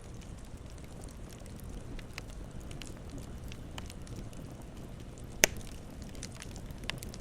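Campfire burning with a low steady rumble and scattered crackles, and one loud sharp pop from the burning wood about five seconds in.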